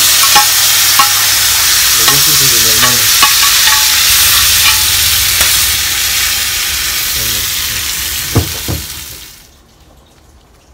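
Cooked pinto beans and their broth hitting a hot stainless-steel skillet and frying with a loud, steady sizzle, with light clicks of a utensil against the pan. A sharper knock comes about eight seconds in, and the sizzle cuts off abruptly about nine and a half seconds in.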